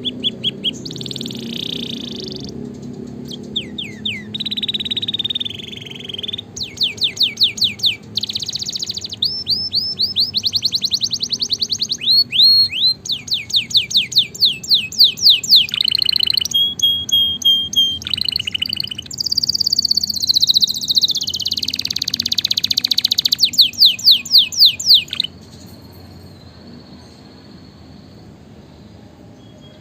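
Domestic canary singing a long song of rapid trilled phrases, each a quick series of repeated high notes, switching from one phrase type to the next. The song stops about 25 seconds in.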